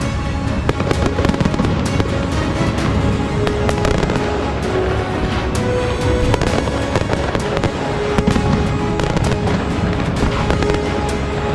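Aerial fireworks going off in a dense, continuous crackle of pops and bangs, with music of held notes playing over them.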